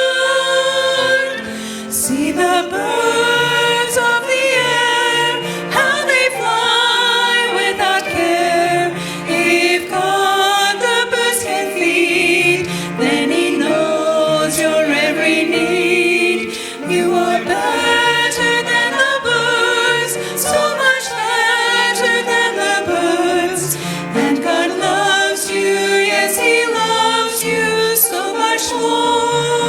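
Women's church ensemble singing with vibrato, with piano accompaniment.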